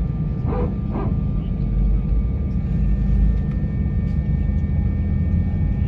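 Airbus A320's IAE V2500 jet engines heard from inside the cabin: a steady low rumble with several steady whining tones over it, the rumble swelling briefly about two to three seconds in.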